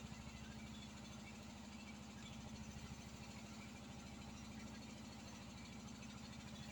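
A small engine running steadily at a low, even speed, with a fast regular pulse.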